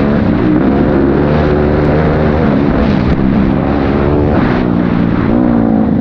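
Honda CRF250L dirt bike's single-cylinder four-stroke engine running under way, its pitch rising and falling with the throttle.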